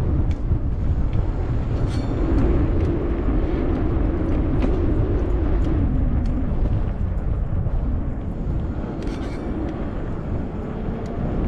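Wind buffeting the microphone during a ride on a fat-tire e-bike, a steady low rumble with tyre and road noise. A low hum swells about two seconds in and fades by about seven seconds, and a few light rattles click through.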